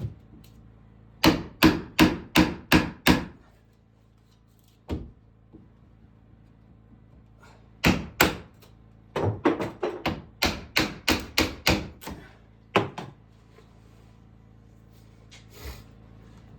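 Hammer blows in two quick runs of steady strikes, about three a second, with single blows between, typical of nailing during cabin carpentry.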